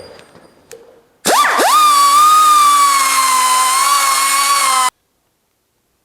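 Air tool with a deburring bit spinning up, its pitch dipping and rising at the start, then running as a steady high whine for about three and a half seconds before it cuts off suddenly.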